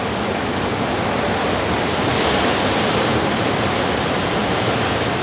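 Ocean surf washing steadily, building a little over the first couple of seconds and then holding.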